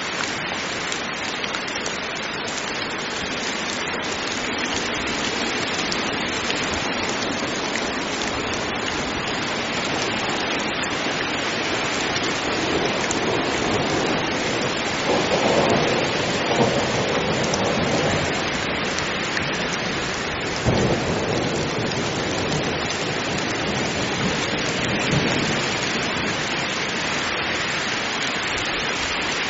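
Heavy rain falling steadily, with rumbles of thunder rolling in about halfway through and a sharper thunderclap a few seconds later.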